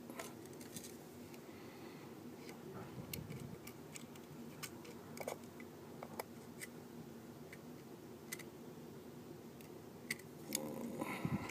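Faint, irregular small clicks and ticks of small repair tools working on the internal parts of an opened iPhone 4S, over a steady low hum.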